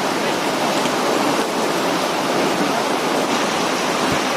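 Heavy downpour in a windy rainstorm, a steady, even rush of rain.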